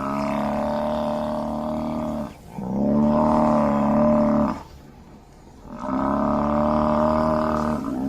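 Water buffalo calling: three long, steady-pitched bellows of about two seconds each, with short pauses between them.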